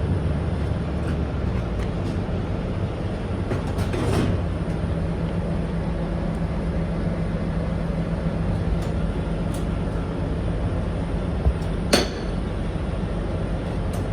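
Semi truck's diesel engine running steadily with a low hum. A sharp metallic click comes near the end, and a fainter one about four seconds in.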